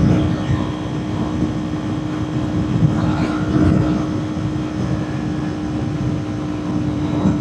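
Kawasaki Ninja 400's parallel-twin engine running at a steady cruising speed, its note held level, under heavy wind rush.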